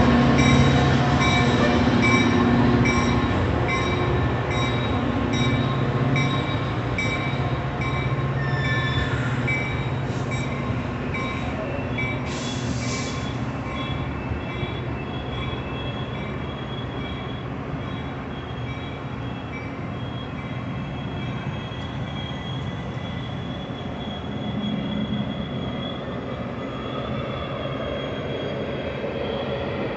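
Metra bilevel commuter train cars rolling past: a steady rumble of steel wheels on rail with thin high squealing tones, and a regular clicking of wheels over rail joints during the first dozen seconds. The sound grows gradually fainter as the train draws away.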